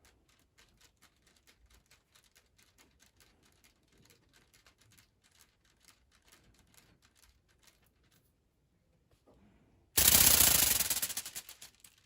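Faint rapid clicking, then about ten seconds in a toy ornithopter's wings suddenly start flapping with a loud, fast rattle that fades out over about two seconds as it runs down.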